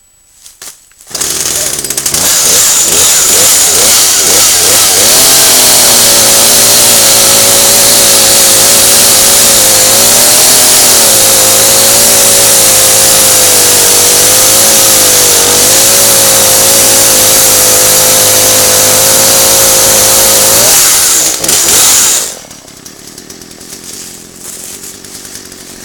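Poulan P3314 33cc two-stroke chainsaw running at full throttle while cutting through a log, its pitch wavering slightly under the load. It comes in about a second in and drops away abruptly about 22 seconds in.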